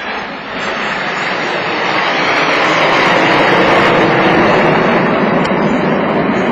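BAE Hawk T1 jets flying past, their Adour turbofans making a loud jet rush that swells over the first few seconds and then holds.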